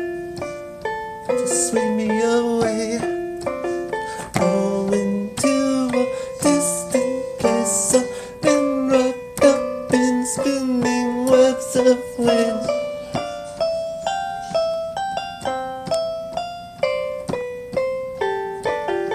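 Keyboard playing an instrumental passage of quick single notes and chords, each note struck sharply and dying away, in a plucked, ukulele-like tone.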